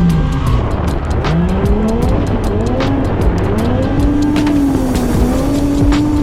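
Single-turbo Toyota Chaser JZX100 drift car's engine revving, its pitch dropping just after the start, then climbing and falling several times before holding steadier, with tyre squeal and sharp cracks scattered through.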